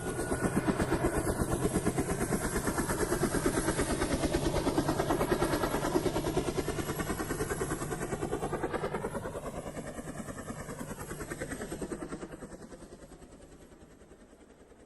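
Helicopter flying past, its rotor beating in a rapid, even pulse. It comes in loud, its pitch bends around ten seconds in, and it fades away over the last few seconds.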